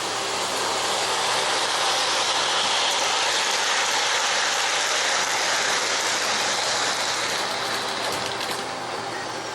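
O-gauge model train running on its track: a steady rolling rattle that grows louder as it comes close and fades after about seven seconds, with a low hum under it and a few clicks near the end.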